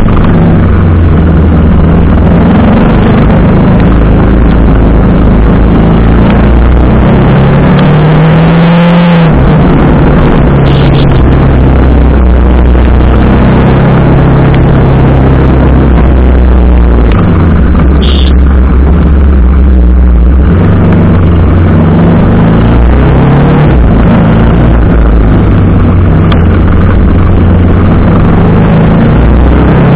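TVS Apache RR 310's single-cylinder engine running under way, its note stepping up and down several times with throttle and gear changes, over a loud, dense rushing noise.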